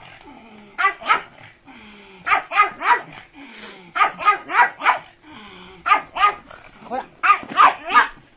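A pug barking excitedly in quick clusters of two to four sharp barks, the clusters about a second apart, with lower falling cries between them.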